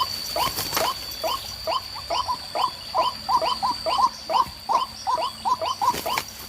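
White-breasted waterhen (ruak-ruak) calling: a long run of short, hooked notes repeated about three to four times a second, bunching closer together midway. A thin steady high tone runs behind.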